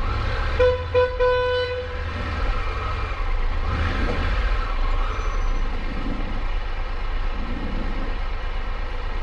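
A vehicle horn sounds three times in about a second and a half, two short toots and a longer one. Under it runs a motorcycle engine with steady rumble and road noise.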